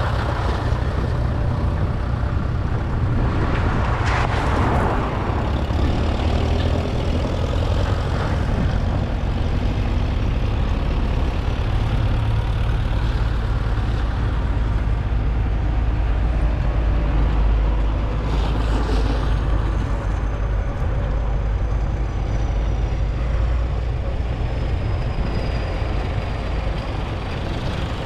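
Vintage diesel tractor engines running steadily on the road with a deep rumble. A louder swell comes about four seconds in and another near nineteen seconds, as tractors pass close by.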